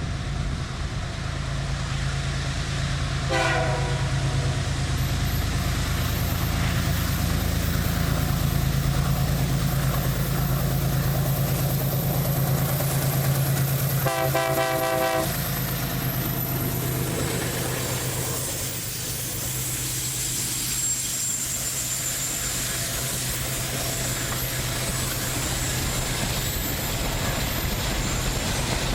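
Diesel freight locomotive running with a steady low engine drone, sounding its horn in a short blast about three seconds in and again for about a second near the middle.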